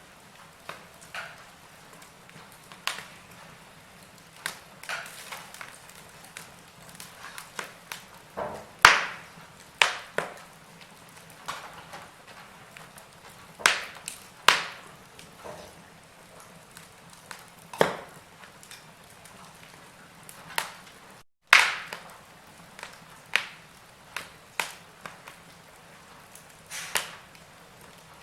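Wood fire in a fireplace crackling, with irregular snaps and pops of varying loudness over a low steady hiss. The sound cuts out for an instant about two-thirds through.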